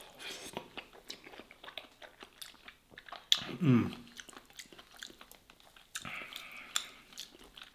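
Close-miked chewing of soft stuffed vegetables and minced meat, with wet mouth clicks and smacks throughout. A short falling hum from the eater comes about halfway through, just after a louder click.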